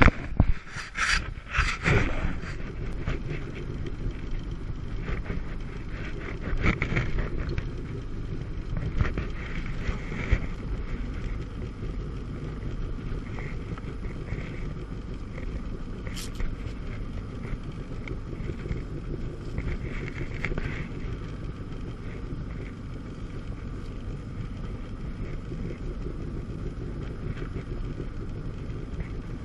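Jet ski running across the lake: a steady engine and water rush under wind buffeting on the microphone, with a few sharp splashing hits in the first couple of seconds and again around seven seconds in.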